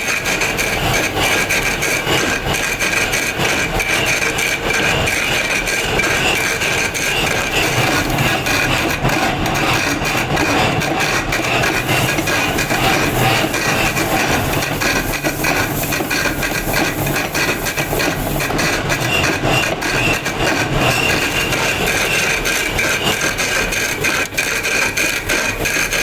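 Steady grinding on stone: a continuous rough scraping that goes on without a break, with a faint steady high whine over it.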